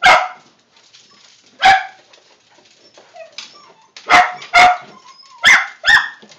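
A dog barking in short, loud barks: six in all, one at the start, one a little before two seconds in, then two close pairs in the second half.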